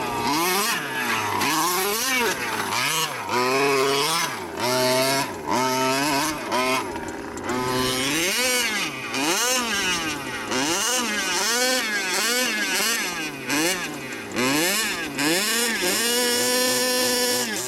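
Petrol engine of a Losi 5T 1/5-scale RC truck, a 300B engine fitted in place of the stock one, revving up and down over and over, roughly once a second. Near the end it holds a steady high rev for a moment.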